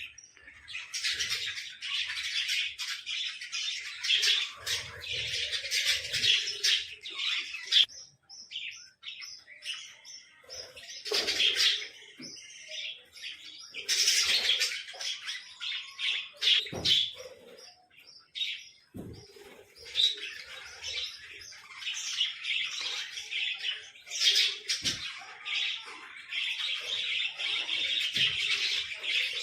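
Small birds chattering and chirping in a dense, rapid run of high chirps and squeaks, with short lulls about eight and eighteen seconds in. A few light knocks are mixed in.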